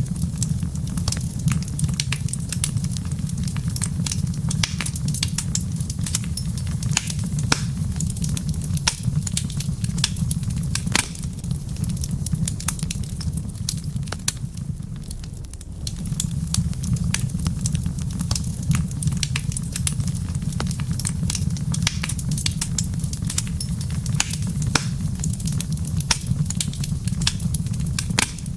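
Wood fire crackling in a fireplace: dense, irregular sharp pops and snaps over a steady low rumble, which eases briefly about halfway through.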